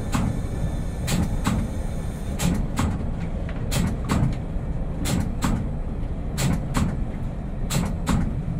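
Train wheels clicking over rail joints in pairs, one pair about every second and a half, from a coasting diesel multiple unit heard from its cab. Under the clicks runs a steady low rumble of the running gear.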